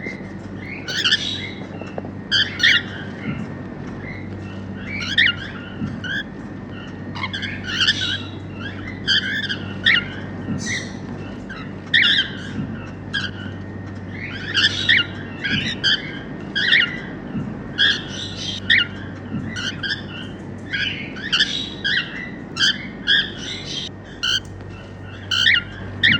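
Grey cockatiels chirping and squawking in short, repeated calls, over a steady low hum.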